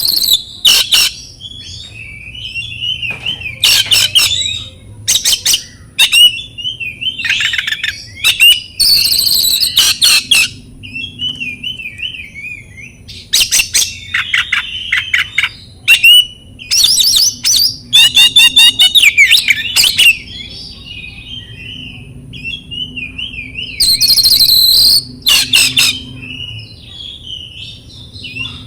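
Oriental magpie-robin (kacer) singing a long, varied song: quick warbling phrases broken every few seconds by loud harsh notes, with a fast trill about two-thirds of the way through. It is a full, energetic song of the kind used as a lure to set other magpie-robins singing.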